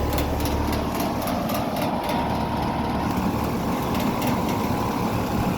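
Residential outdoor air-conditioner condensing unit running: a steady compressor hum and condenser fan noise with a faint regular pulsing.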